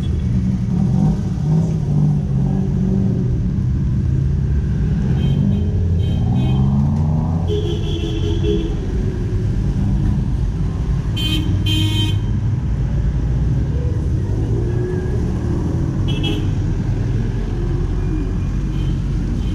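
Street traffic: vehicle engines running steadily, with several short horn toots, a few beeps about a third of the way in, around halfway and once more later.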